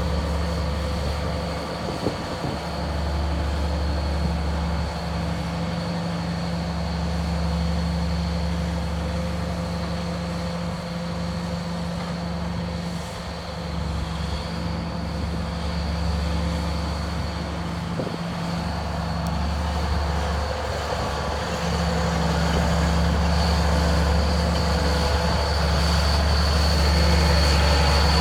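Steiger Panther ST310 four-wheel-drive tractor's diesel engine running steadily with a low hum and a thin high whine. It grows louder about two-thirds of the way in.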